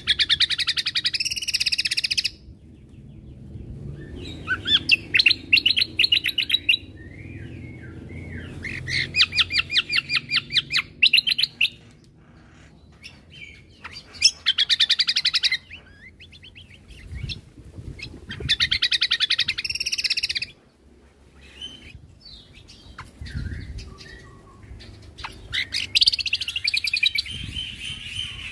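Cucak kombo (kecial kombo) songbird singing in rapid-fire 'tembakan' bursts: about six phrases of fast, evenly repeated high notes, each lasting about two seconds, with short pauses between them.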